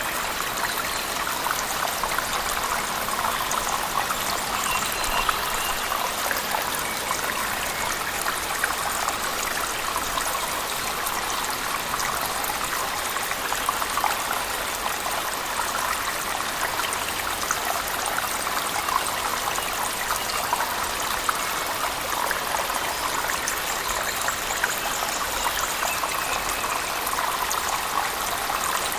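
Steady rushing water of a waterfall mixed with heavy rain, a dense even hiss speckled with fine drop patter.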